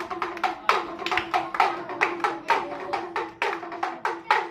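A small hand drum, the dugdugi of a monkey show, beaten in a steady rhythm of about three strokes a second, each stroke with a short ringing tone.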